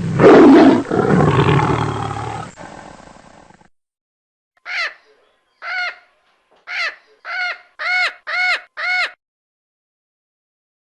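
A loud, rough animal call that fades away over about three seconds. After a short silence come seven short pitched calls, each rising and falling in pitch, coming closer together toward the end.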